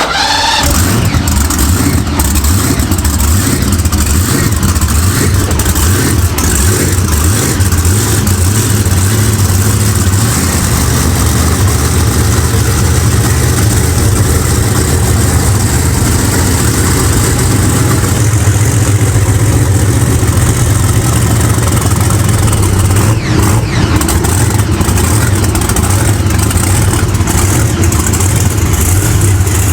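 A real monster truck's engine catches and starts after being primed with fuel poured into it from a squirt bottle, then keeps running loud and steady.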